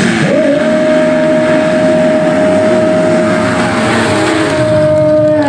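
Motocross bike engines at race speed: one engine revs up just after the start and holds a steady high pitch, starting to drop off right at the end, with other engines running underneath.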